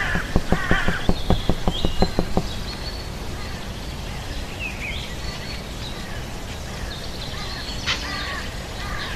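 Birds chirping, short falling calls every second or two, over a steady outdoor background. A rapid run of thumps, about six a second, fades out over the first two and a half seconds, and a single sharp click comes near the end.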